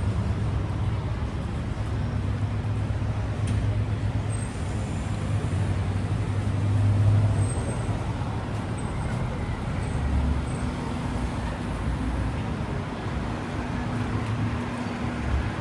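Busy city street traffic: a steady wash of passing vehicles, with a heavy low engine rumble that fades out about seven seconds in.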